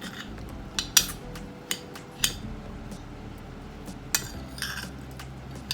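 Cutlery clinking and scraping on a plate while eating: several sharp clinks, the loudest about a second in, and a longer scrape about four seconds in.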